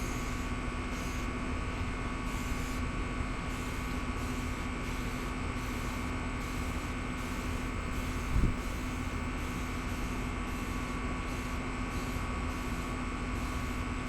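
A steady mechanical hum runs throughout, with a single knock a little over halfway through.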